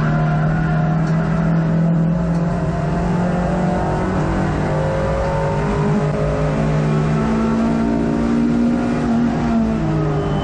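Hot hatch racing car's engine heard from inside the cabin, running hard under load. Its note climbs about two-thirds of the way through and falls back near the end.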